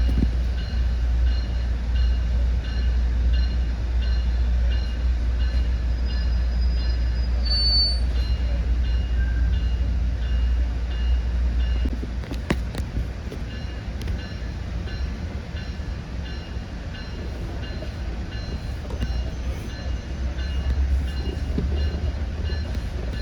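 Exo Mascouche-line commuter train heard from on board: a steady low rumble with a ringing that repeats about twice a second. The rumble eases about halfway through, and a brief high tone sounds about a third of the way in.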